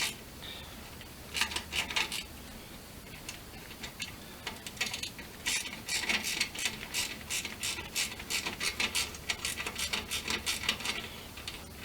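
Ratchet wrench clicking as it tightens the bolt on a motorcycle exhaust clamp. There is a short run of clicks early, then a long run of rapid clicks in the second half.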